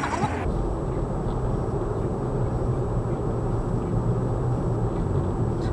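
Steady rumble of a car driving, engine and tyre noise heard from inside the cabin.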